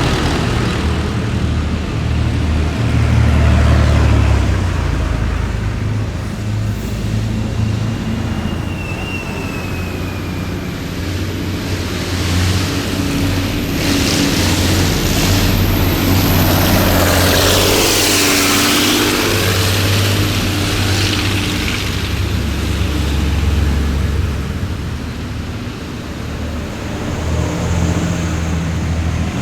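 A column of heavy military vehicles driving past with a deep, steady engine rumble. About two-thirds of the way through, one vehicle passes close, its noise swelling and falling away as it goes by. There is a brief falling whine about a quarter of the way in.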